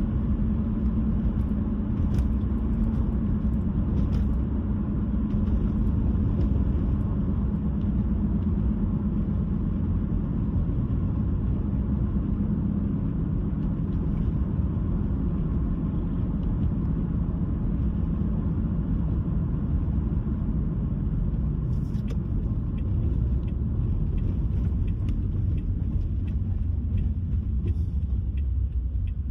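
Car driving down the road: a steady low rumble of tyre and engine noise with a faint hum.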